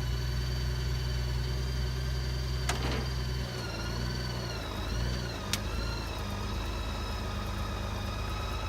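Motorcycle engine idling steadily as the bike is eased into line on the lift, easing off about three and a half seconds in, with a couple of sharp clicks.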